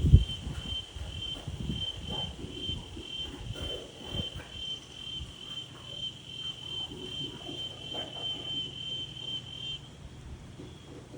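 A cricket chirping in an even, high-pitched pulse of about three chirps a second, stopping shortly before the end. Underneath, wind gusts rumble on the microphone, with a sharp low thump right at the start.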